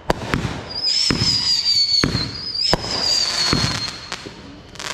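Consumer fireworks going off: sharp bangs, plus high whistles that each hold for about a second and a half, drifting slightly down in pitch, twice, over a crackling hiss.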